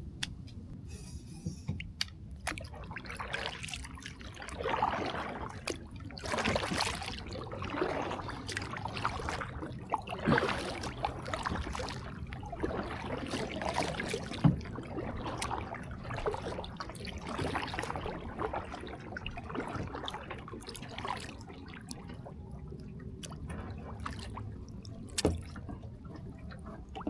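Water splashing and trickling around a kayak in an irregular way, with a few sharp clicks.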